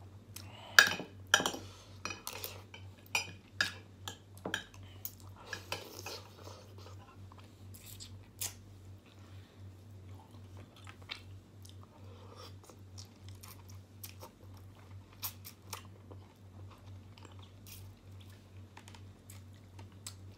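Close-up eating sounds: a spoon and fork clinking and scraping against a glass dish, with the loudest clinks in the first few seconds, then chewing of chicken and rice with occasional crunches. A low steady hum lies underneath.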